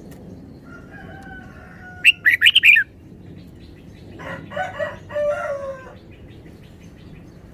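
Red-whiskered bulbul singing a short burst of loud, rapid notes about two seconds in, followed around four to six seconds by a lower, longer bird call.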